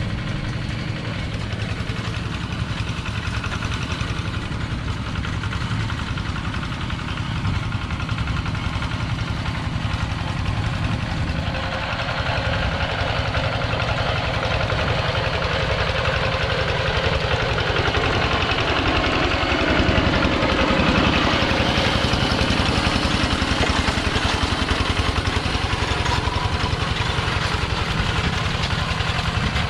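Engine of a two-wheel walking tractor running steadily, growing louder and busier about a third of the way in.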